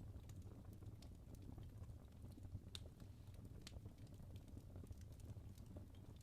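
Wood fire burning in a fireplace: soft, low rumble of the flames with scattered crackles and pops from the logs, two sharper pops about two and a half and three and a half seconds in.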